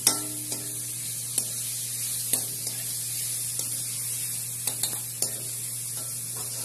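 Pieces of meat sizzling in oil in a metal wok, a steady high hiss, while a spatula stirs them, clinking and scraping against the wok about once a second.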